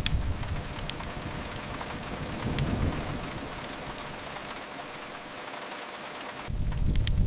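Steady rain hiss with occasional sharp pops of a crackling wood fire. A deep low rumble fades out at the start, swells briefly near the middle, and returns strongly about six and a half seconds in.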